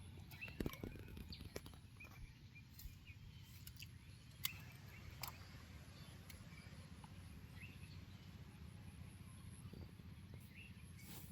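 Faint outdoor ambience: a low steady rumble with a few sharp clicks and faint short bird chirps.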